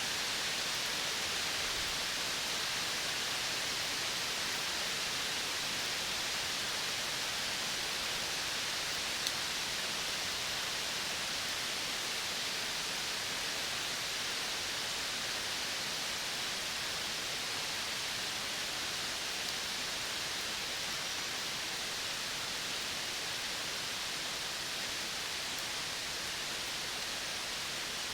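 Steady, even hiss of a natural outdoor soundscape, strongest in the upper range, with no distinct calls or events standing out.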